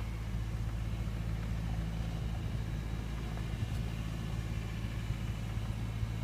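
Heavy diesel truck engine idling steadily, a low even hum with no change in speed, most likely the dump truck's own Cat 3406E.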